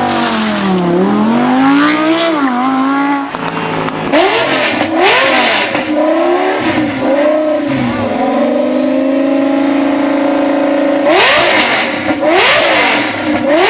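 Car engine revving hard in a series of blips, its pitch climbing and dropping again and again, with a steadier held stretch after about eight seconds before a few more sharp revs near the end.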